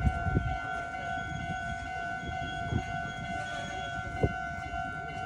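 Meitetsu electric train rolling slowly along the track: a low running rumble with a few sharp wheel knocks over rail joints. A steady high electronic tone at two pitches sounds over it throughout.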